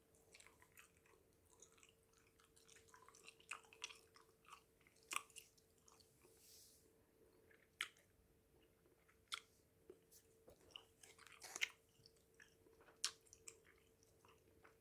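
Bubble gum being chewed close to the microphone, in quiet, irregular wet clicks and smacks; the freshly started piece is softening. A faint steady hum runs underneath.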